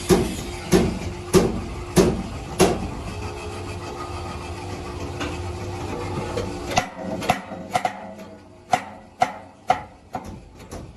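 Workshop metalworking: five evenly spaced heavy strikes, about one every two-thirds of a second, over a steady machine hum. A stretch of steady machine noise follows, then a quicker, uneven series of sharper knocks.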